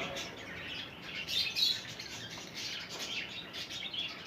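Budgerigars chirping: many short, high twittering chirps in an irregular stream.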